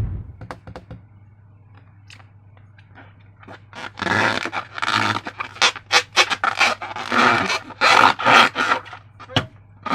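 Slime being squished and worked by hand: faint sticky sounds at first, then a quick run of wet squelches, several a second, from about three and a half seconds in.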